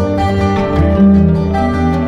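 Background music: plucked-string instrumental with a steady rhythm of picked notes over a sustained bass.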